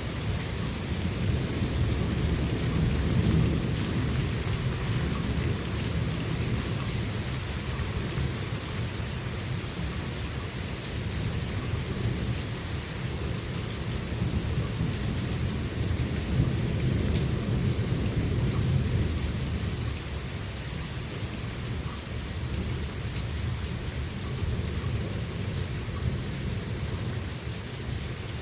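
Thunderstorm: steady rain with low, rolling thunder that swells a few seconds in and again just past the middle.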